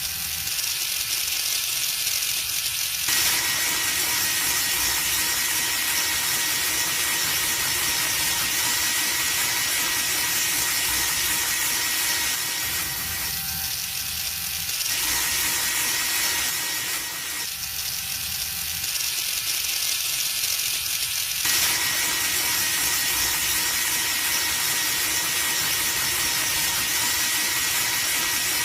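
Small motor of a DIY model chaff cutter running steadily, a constant high whine over a hissing rattle. The lower part of the sound drops away a few times for a second or so, then returns.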